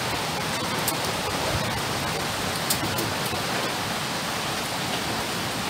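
Steady rain falling, an even rushing hiss, with a few light ticks, the sharpest a little under three seconds in.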